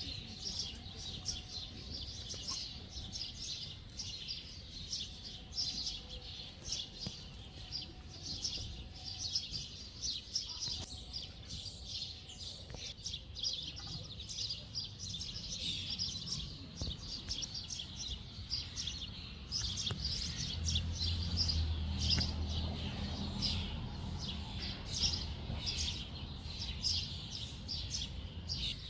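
Small songbirds chirping and twittering in a dense run of short high calls, over a low rumble that swells for a few seconds about two-thirds of the way through.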